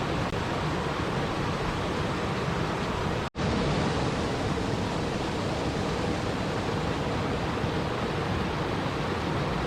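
Steady rushing water noise, an even wash with no distinct drops or splashes, that cuts out for an instant about three seconds in and then resumes.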